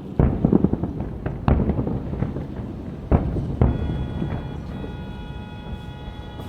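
Aerial fireworks bursting in a quick series of deep booms with rumbling echo in the first half. About halfway through, music with long held notes comes in under the fading rumble.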